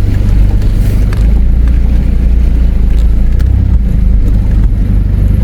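Nissan Patrol 4WD running slowly over rough ground, heard from inside the cabin as a steady low rumble with a few light knocks.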